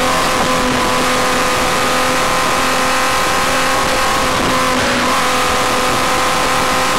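VW Golf R32's 3.2-litre VR6 engine running at fairly steady revs, heard from inside the cabin at speed, with a constant rushing noise beneath it.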